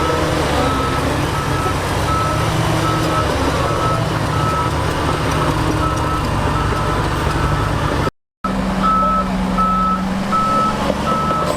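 Diesel engine of a heavy earthmoving machine running while its reversing alarm beeps steadily, about twice a second. The sound drops out briefly about eight seconds in, then the engine and beeping carry on.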